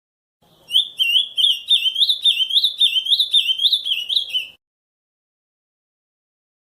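An ultramarine grosbeak (azulão) singing one song of the Camaquã type: a quick run of rich, sliding whistled notes, about three a second, lasting about four seconds and stopping short.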